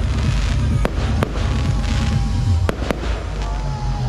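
Aerial fireworks display: shells bursting with sharp bangs, about four in a few seconds.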